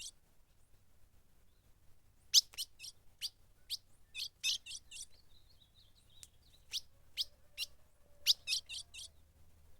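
Ultramarine grosbeak giving sharp, steeply falling chip calls, some single and some in quick runs of three or four, starting a couple of seconds in. It is excited by a female nearby.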